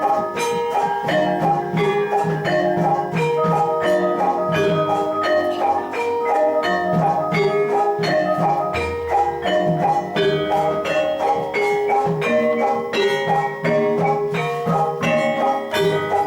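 Javanese gamelan ensemble playing jathilan accompaniment: bronze metallophones and gong-chimes strike quick interlocking notes in a steady beat over low drum strokes.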